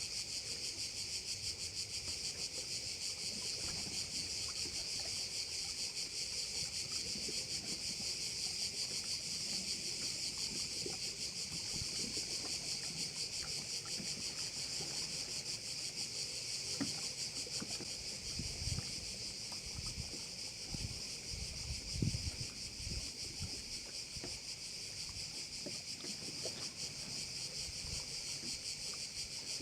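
Dense chorus of crickets shrilling without pause, a fast even pulsing high in pitch. A few low knocks and rumbles come through about two-thirds of the way in, the strongest a short thump.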